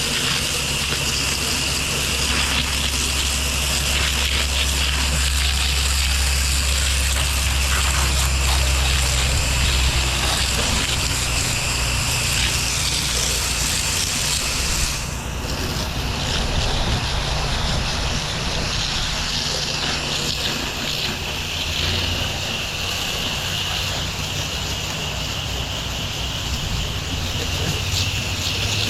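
Pressure washer running: a steady engine hum under the hiss of spraying water.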